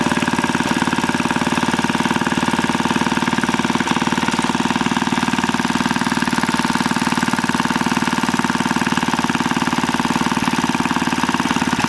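1949 Briggs & Stratton WI half-horsepower single-cylinder engine running steadily, its firing pulses in a rapid, even rhythm.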